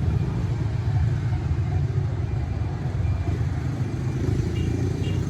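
Motorcycle on the move: a steady low rumble of engine and road noise.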